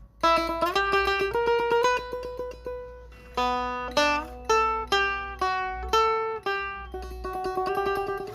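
Setar, the Iranian four-string long-necked lute, played solo: a melody of plucked notes, each held with quick repeated strokes, with a short break in the notes about three seconds in.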